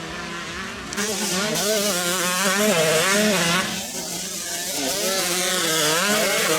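125cc motocross motorcycles' two-stroke engines revving, the pitch rising and falling again and again, with a brief drop in loudness about four seconds in.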